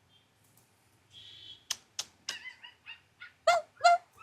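Pet parrots calling: a short buzzy call, then quick chirps, and two loud squawks near the end, with a couple of sharp clicks in between.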